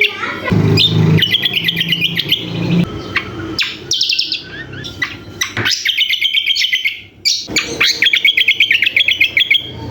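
Caged songbird singing loud, rapid chattering trills, repeated about four times, each phrase one to two seconds long, a song of the type that bird keepers compare to the sikatan londo. A low rumble runs under the first phrase.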